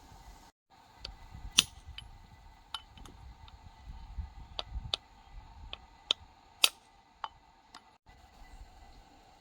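Light, irregular clicks and taps of hand tools and small metal fuel-pump parts being handled, with two sharper clicks about a second and a half in and about six and a half seconds in, over a faint steady hum.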